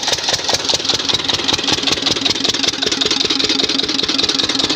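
Engine running steadily at idle, with a fast, even pulse.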